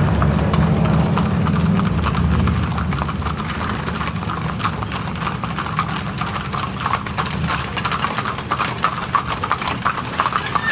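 Horses' hooves clip-clopping on a paved road as horse-drawn wagons pass, many strikes overlapping in an uneven patter. A low rumble underneath fades out about halfway through.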